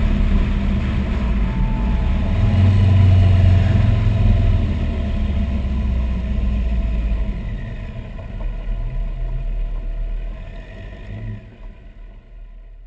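Supercharged 2.5-litre five-cylinder engine of a VW Rabbit running and being revved, swelling to its loudest a few seconds in, then settling back down and fading out near the end.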